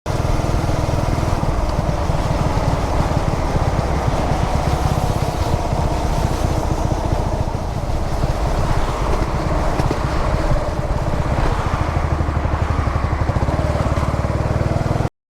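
Yamaha SR400's air-cooled single-cylinder engine running while the bike is ridden, a rapid steady stream of firing pulses under a rushing noise.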